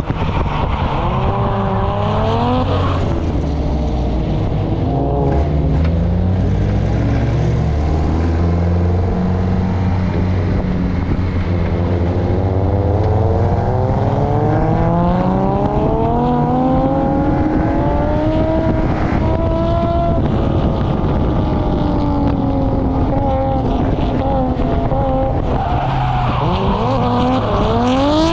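Engines of cars driven hard on a racetrack, recorded by a GoPro mounted on a chasing Nissan Primera P10. Engine notes rise and fall in pitch as the cars accelerate, shift and lift, over a steady low rumble.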